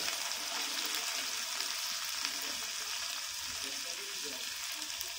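Onions and garlic sizzling steadily in hot oil in a metal kadai.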